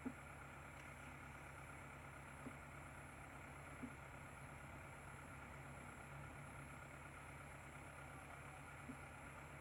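Faint engine running steadily, with no change in speed, and a thin high whine above it. A few short clicks break in, one just after the start, two a few seconds in and one near the end.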